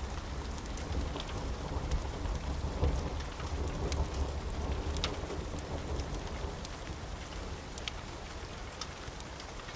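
Steady rain with a low rumble of thunder that dies down over the last few seconds, and scattered sharp crackles throughout.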